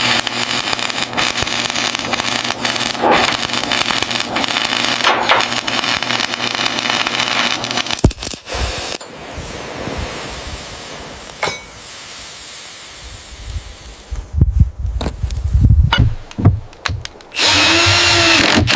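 Power tools working wood: about eight seconds of loud cutting noise, then a quieter stretch of tool noise. Then come knocks and thumps, and near the end a short burst of a motor whose pitch rises and falls.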